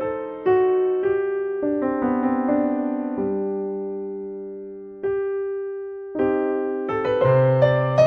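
Background music played on an electric piano: a slow run of struck notes and chords, a held chord fading away in the middle, then a busier passage with a low bass note near the end.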